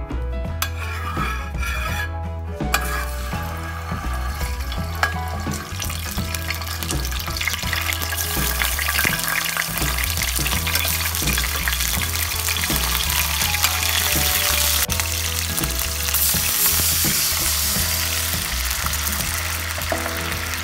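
Garlic cloves and red chili frying in hot mustard oil in a metal pan, stirred with a metal spatula. The sizzle builds up over the first few seconds and grows louder from about eight seconds in, with occasional scrapes of the spatula. Background music plays underneath.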